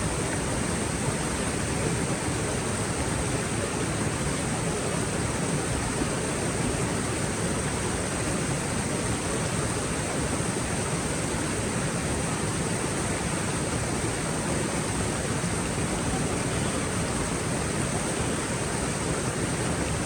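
Stream water rushing steadily over rocks, an even unbroken hiss and rumble.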